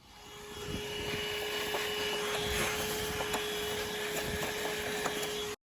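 Vacuum cleaner running, coming up to speed over the first second and then holding a steady hum with one held tone. A few faint clicks come from debris being sucked out of a heat pump's outdoor condensing unit. The sound cuts off abruptly at the end.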